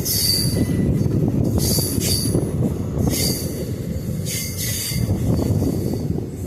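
Passenger train running on the track: a heavy, steady rumble of wheels on rail, with short high-pitched wheel squeals repeating about every second and a half.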